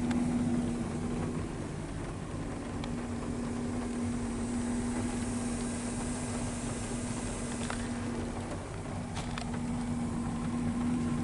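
Steady hum of an idling vehicle engine under the even hiss of a rain shower, with a few faint ticks.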